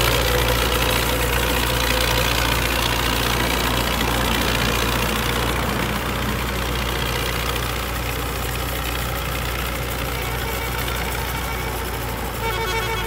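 ISEKI tractor's diesel engine running steadily, growing slightly quieter over the stretch.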